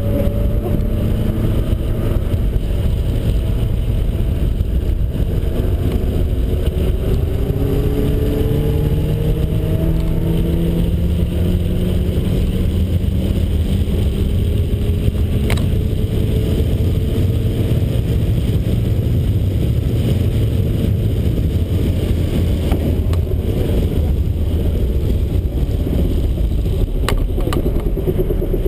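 Turbocharged 1.9-litre Miata engine running at fairly low, steady revs with a steady low rumble, the engine note rising slowly at times. A sharp click about fifteen seconds in, and another near the end.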